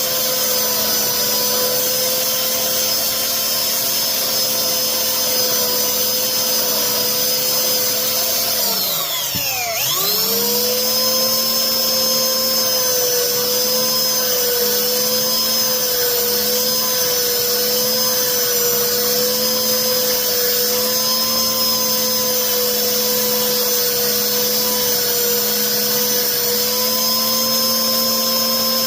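Cheap benchtop belt sander running steadily and loudly, sanding and shaping a treated-wood armrest. About nine seconds in, its pitch briefly drops away and then climbs back to full speed.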